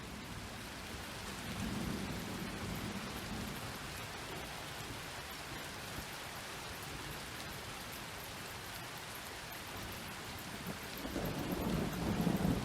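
Steady heavy rain with rolling thunder: a low rumble swells about two seconds in, and another builds up near the end.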